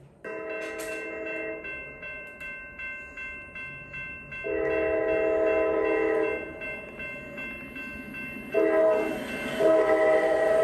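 Amtrak P42DC diesel locomotive's air horn chords sounding the grade-crossing pattern, long, long, short, long, over the noise of the passing train.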